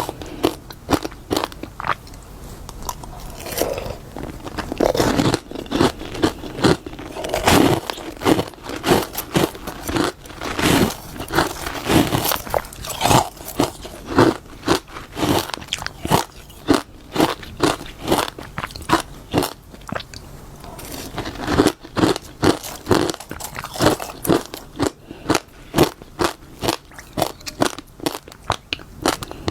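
Close-up crunching and chewing of freezer frost: many crisp, crackling bites one after another.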